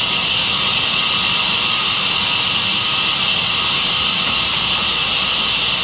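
Sawmill saw machine running with a loud, steady hiss.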